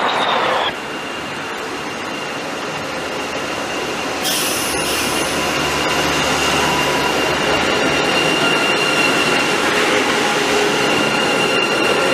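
Train running along the track with a steady rushing noise. About four seconds in it grows louder and a thin, steady high whine joins and holds.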